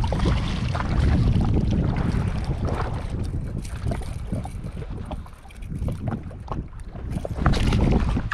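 Wind buffeting the microphone over open water: a heavy, uneven rumble that swells and fades, with a few light knocks.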